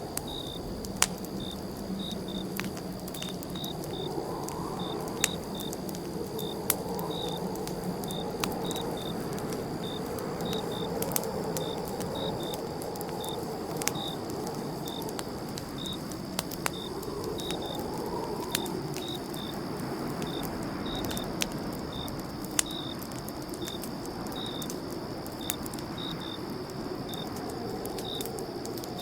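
Campfire crackling, with sharp pops every second or two over a low rushing of the flames, while crickets chirp steadily, about two chirps a second, over a faint high insect drone.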